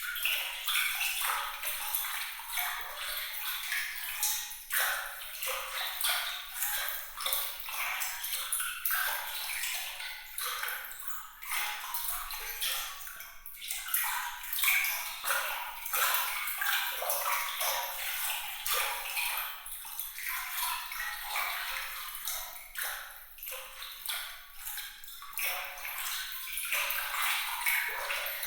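Water trickling and splashing in a steady, irregular flurry of small, bright drips and plinks, with no low rumble beneath.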